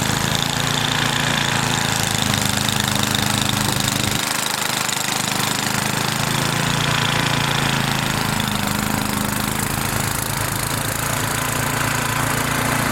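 Gasoline engine running steadily with a rapid chugging pulse, cutting off abruptly at the end.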